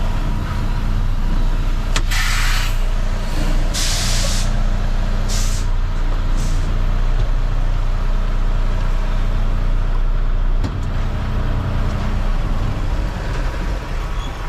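Semi truck's diesel engine idling steadily, with four short hisses of released air in the first seven seconds; the first two hisses are the longest.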